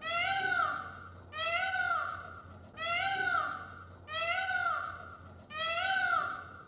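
A cat meowing five times at an even pace, about once every second and a half. Each meow rises and falls in pitch, over a faint steady low hum.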